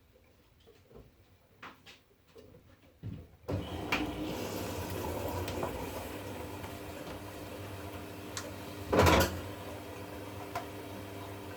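V-Zug Unimatic SL washing machine partway through a wash cycle: faint clicking at first, then about three and a half seconds in it suddenly starts a steady running noise with a low hum. A short loud noise comes a little past the middle.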